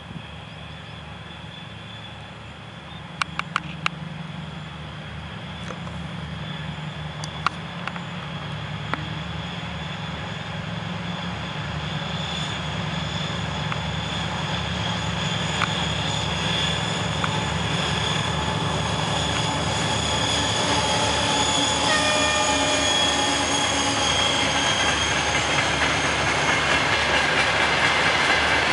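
2TE10U twin-section diesel locomotive's engines running as it approaches with a freight train, the sound growing steadily louder throughout. Its low engine hum carries a high whine above it. A few sharp clicks come in the first third.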